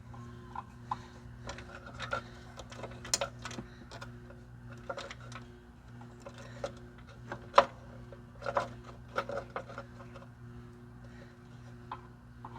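Irregular clicks, taps and rubbing of a control cable and metal parts being handled while the cable is worked into place on a lawn mower. The sharpest click comes about two-thirds of the way through, and a steady low hum runs underneath.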